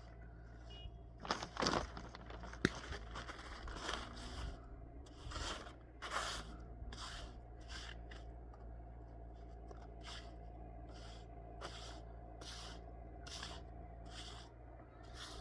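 Repeated short scraping strokes, irregular at first with one sharp click a little over two seconds in, then settling into a steady rhythm of a little more than one stroke a second, over a steady low hum.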